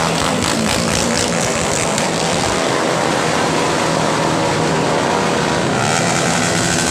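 Vehicle engine running steadily through a loud aftermarket exhaust.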